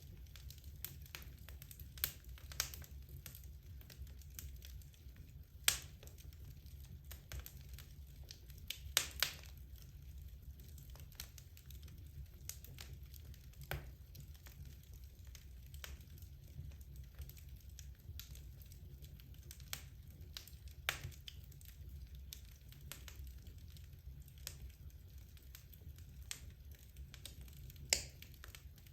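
Wood logs burning in a fireplace, crackling with irregular sharp pops, a few louder snaps among them, over a low steady rumble of the fire.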